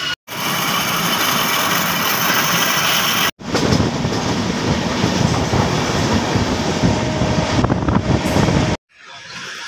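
Indian Railways passenger train running, heard from an open door or window: a loud, steady rush of wheels on rails and wind. It rises as coaches on the next track pass close by. The sound cuts out abruptly twice where clips are joined.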